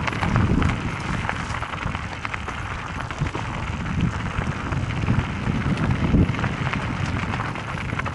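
Mountain bike riding a dirt trail: tyres crunching over gravel with a stream of small rattles and clicks from the bike, and wind rumbling on the microphone.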